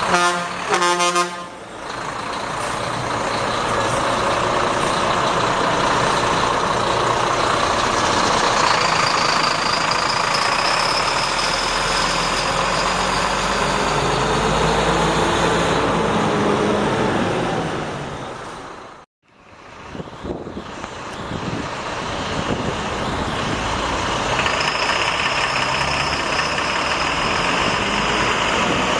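Heavy tow truck's diesel engine running as the truck drives off, with road noise and a short horn toot near the start. The sound cuts out abruptly about two-thirds of the way through, then the truck and traffic noise resume.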